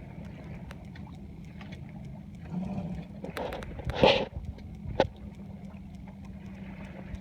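Siren 17 sailboat under way: a steady low rush of wind and water, broken by a few sharp knocks, the loudest burst about four seconds in.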